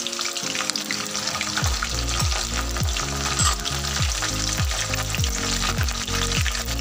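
Chopped garlic and cumin seeds sizzling in hot oil in an aluminium kadhai, stirred with a flat metal spatula. Background music plays under it, its bass notes coming in a little under two seconds in.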